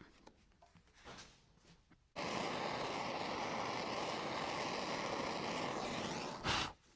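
A heating tool being used to soften seam sealer on car body panels, starting suddenly about two seconds in with a steady rushing hiss. It runs for about four and a half seconds, swells briefly near the end, and cuts off abruptly.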